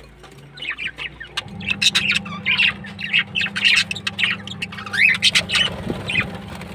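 A group of small birds chattering, a rapid run of short chirps and squawks, over a steady low hum that comes in about a second and a half in.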